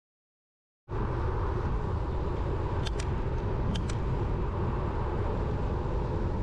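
Steady wind and road rumble from riding a road bike, starting about a second in after silence, with two brief high chirps near the middle.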